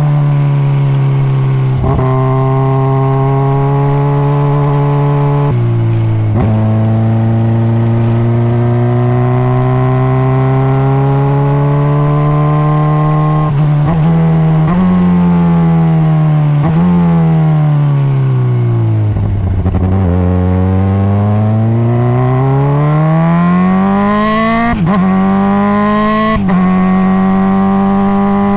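2021 Honda CBR600RR's inline-four engine on its stock exhaust, riding under load. The note rises and falls with the throttle, with several gear changes. It drops to its lowest as the bike slows about two-thirds of the way through, then climbs again as it accelerates away.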